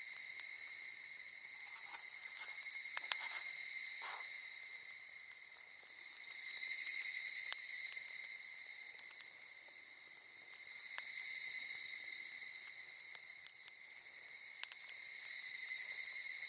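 Insects singing a steady, shrill drone that swells and fades every four to five seconds. Scattered sharp crackles and pops from a burning wood campfire sound through it.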